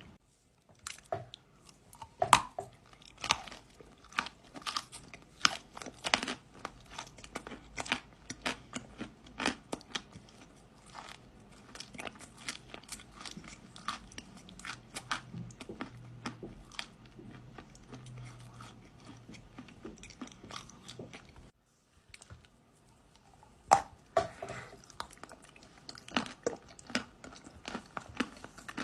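Close-miked biting and crunching of dry kaolin clay chunks, with a quick run of sharp, crisp crunches and chewing. The crunching stops for about two seconds past the middle, then starts again with a loud bite.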